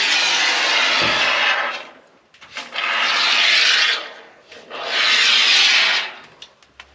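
Three long rubbing strokes worked back and forth across a hard surface, each lasting about a second and a half with short pauses between, as the surface is prepared for seam tape.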